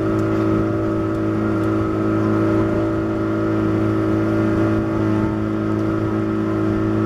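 A boat's motor drones steadily at an even pitch, without revving up or down.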